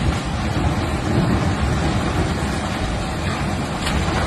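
Steady rushing noise of fast-moving floodwater, heaviest in the low rumble.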